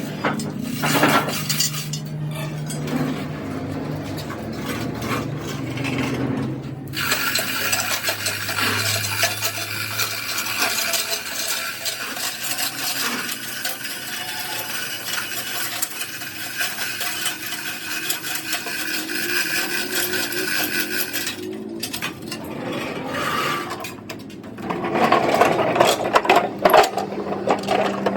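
Metalworking noise on a truck axle housing: metal clinking and clattering tool sounds, in several separate stretches.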